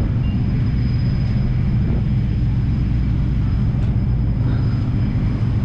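A car engine running at a steady speed: a constant low drone.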